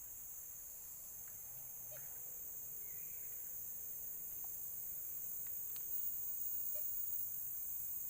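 Steady high-pitched insect chorus, with a few faint ticks and a brief faint chirp about three seconds in.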